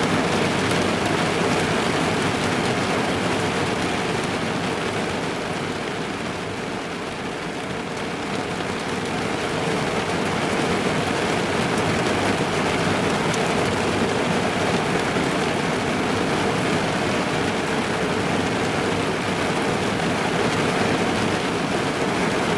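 Steady rain drumming on a car's roof and windows, heard from inside the car as a dense, even patter. It eases a little a few seconds in, then builds back up.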